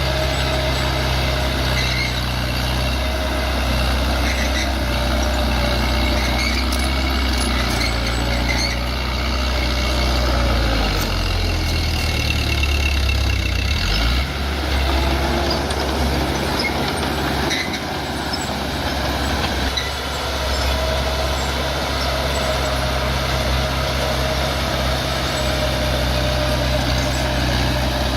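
Bulldozer's diesel engine running steadily, its note dropping and shifting about halfway through as the load changes, with a steady whine above the engine.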